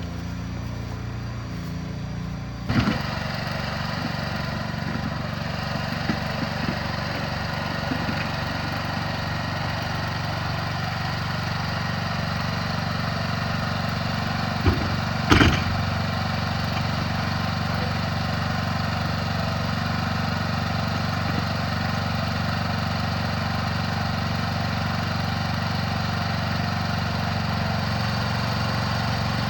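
A small engine running steadily, getting louder and busier about three seconds in as it takes on work. There are a few sharp clunks: one as it picks up and two close together about halfway through.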